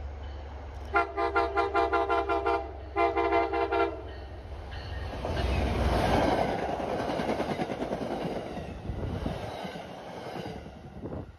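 MBTA HSP46 diesel locomotive No. 2015 sounds its horn in two blasts, a longer one and then a shorter one. It then passes close by with its coaches, a loud rumble of engine and wheels on rail that swells, peaks and fades away near the end.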